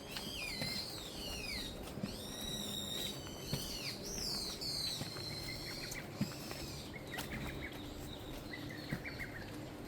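Birds calling: a run of clear whistled calls that rise and then fall in pitch, repeated several times, giving way after about five seconds to softer, shorter chirps.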